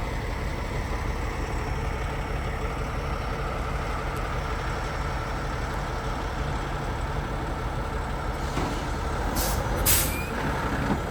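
Logging truck's diesel engine running steadily, with two short hisses of air from the air brakes near the end.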